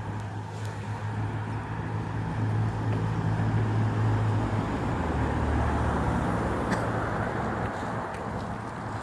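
A motor engine hums steadily under a rushing noise, growing louder through the middle, and its low hum drops in pitch about five seconds in.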